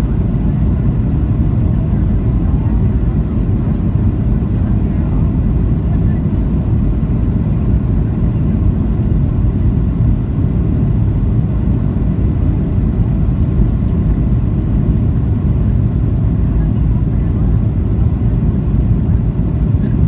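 Steady low rumble of a Boeing 737-800 heard from inside the passenger cabin, engine and airflow noise running evenly without change.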